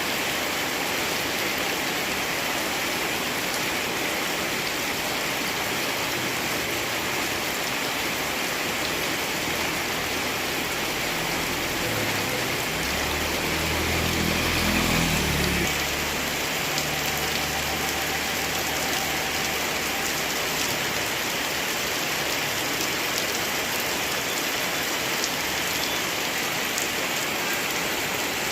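Steady heavy rainfall. About halfway through, a low hum swells up for several seconds and fades away again.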